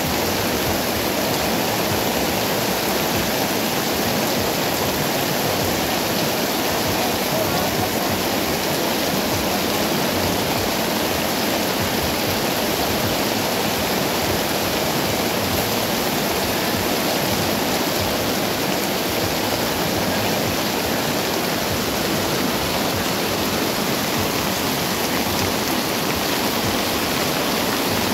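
Heavy rain pouring down on wet pavement and tarpaulin market awnings, a steady hiss.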